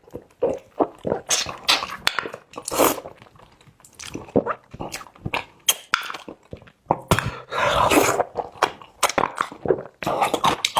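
Close-miked eating sounds: someone biting, chewing and smacking on braised pig's trotter, with many sharp wet clicks and short bursts of sucking noise.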